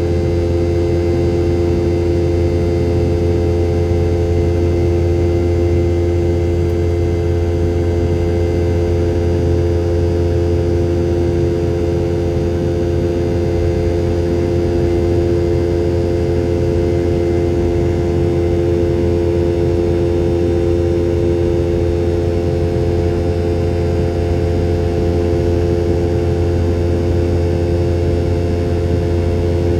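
Boeing 717-200's rear-mounted Rolls-Royce BR715 turbofan engines heard inside the cabin as a loud, steady drone with several held tones over a deep rumble, unchanging throughout.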